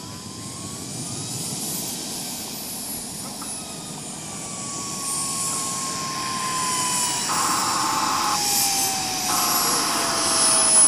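Radio-control model jet flying past, its engine's high whine growing louder, with a pitch that glides slowly downward as it passes.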